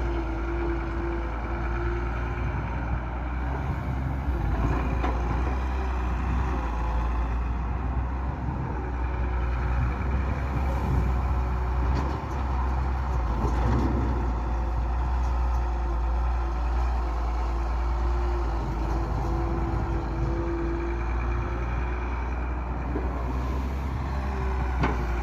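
Diesel tractor engines running steadily with a deep, constant hum, in a pulling power test between two Swaraj tractors.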